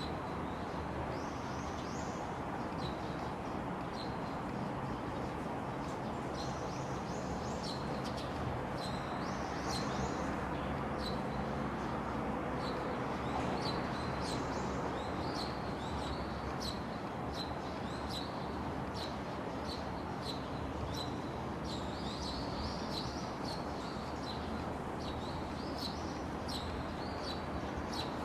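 Small birds chirping and twittering, with frequent short high calls, over a steady low background rumble.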